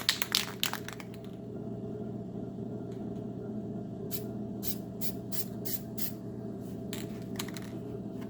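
Aerosol can of flat black spray paint being sprayed in short bursts: a quick run of hisses in the first second, then about ten short hisses in quick succession later on, over a steady low hum.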